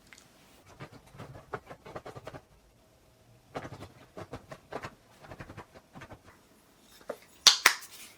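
A run of small clicks, taps and scratching, like things being handled, with two sharp louder clicks near the end.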